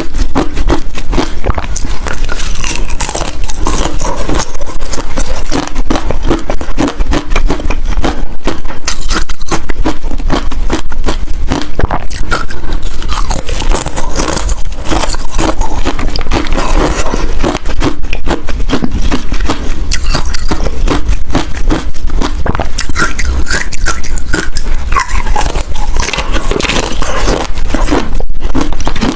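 Close-miked crunching of hard ice between the teeth, a dense run of cracks and crunches as the ice is bitten and chewed.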